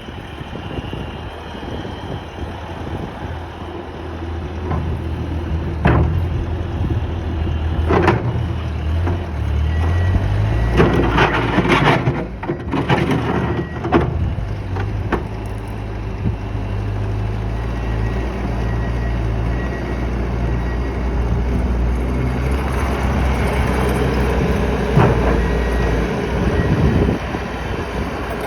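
Bobcat skid steer engine running steadily, revving up about ten seconds in, with several sharp clanks and knocks from the machine as it works.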